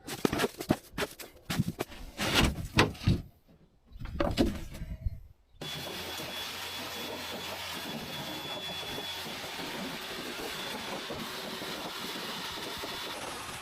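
Irregular rubbing and knocking for the first few seconds, then from about five seconds in a vacuum cleaner running steadily as it sucks leaves out of the aluminium boat hull, with a faint thin whine over its noise.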